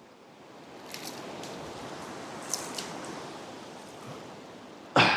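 Steady rushing of river water and wind on the microphone, with a few faint rustles and clicks and a short loud knock or burst near the end.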